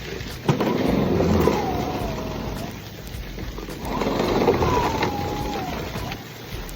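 Electric snow shovel running in two bursts of about two seconds each. Its motor whine falls in pitch during each burst, over a rushing noise.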